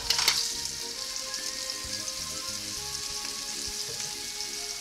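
Seasoned blue crab pieces frying in hot olive oil in a pan, a steady sizzle. There are a couple of knocks right at the start as the crabs drop into the pan.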